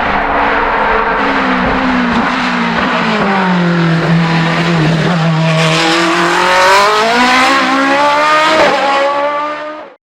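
Hill-climb race car engine, its revs falling for about five seconds as it slows, then climbing again as it accelerates away, with a short break in the rise near the end like a gear change. It cuts off suddenly.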